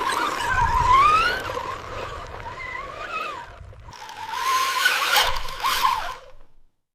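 Small electric motors of radio-controlled construction models whining, rising and falling in pitch over scraping, gritty noise. The sound dips briefly about four seconds in, comes back louder and cuts off near the end.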